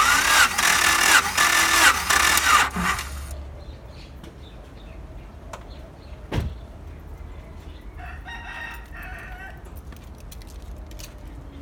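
Starter motor cranking the Honda Accord's engine for a dry compression test on cylinder 4, with the gauge fitted and the plugs out. The whine dips in steps as each compression stroke loads the starter, and stops about three seconds in. Later come a single sharp knock and a fainter, shorter burst of a similar sound.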